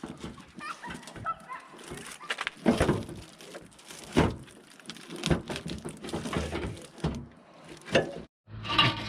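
Irregular clicks, knocks and rattles of a new plastic headlight assembly being handled and fitted, with its bulbs being put in.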